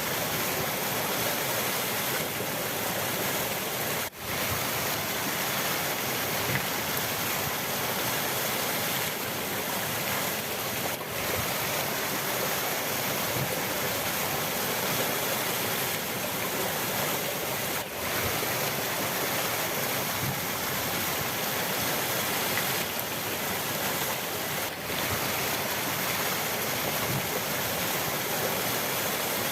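Rushing river water, a steady dense hiss. Its level dips briefly about every seven seconds.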